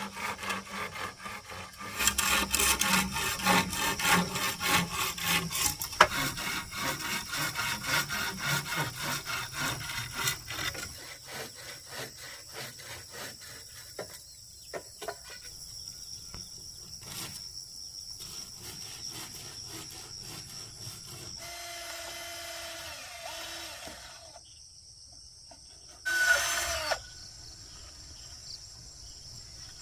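Hand saw cutting through wood with quick, even back-and-forth strokes. The strokes get louder about two seconds in and die away about ten seconds in.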